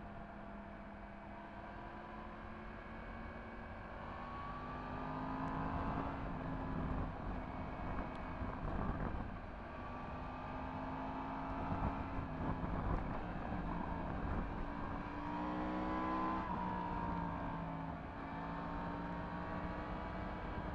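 Yamaha MT-10 SP's crossplane inline-four engine with an Akrapovič exhaust, under way: the revs climb and drop several times with throttle and gear changes.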